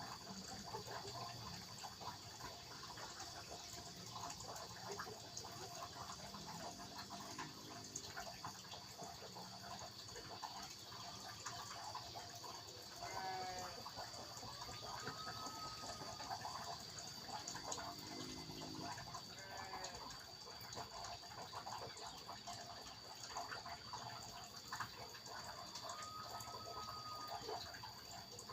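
Steady flowing water with a constant high-pitched tone over it. A few short animal calls come around a third of the way and again past the middle, and two brief whistles are heard, one about halfway and one near the end.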